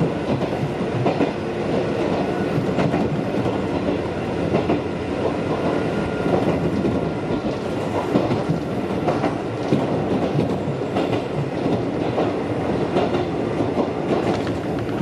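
Mizuma Railway electric commuter train running along the track, heard from inside the leading car: a steady rumble of running noise with the wheels clicking over rail joints.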